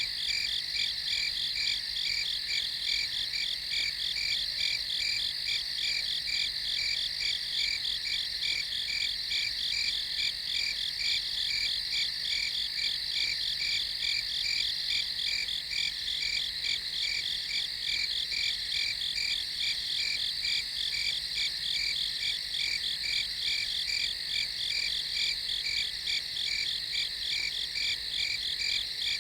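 Crickets chirping steadily at night, several overlapping pulsing trills at an even level.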